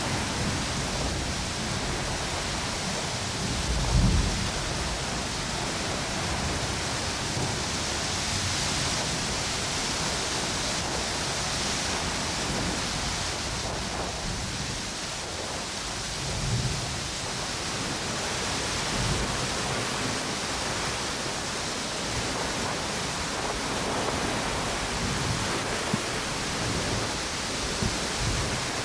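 Ocean waves washing on a beach and strong wind blowing through palm trees, a steady dense rush. A few short low rumbles rise out of it, the loudest about four seconds in.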